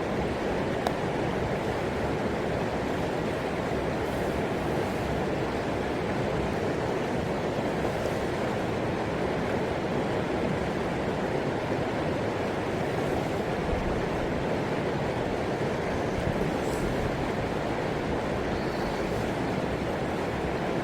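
Steady rushing of the Donggang River flowing over its bed, an even wash of water noise without pause or change.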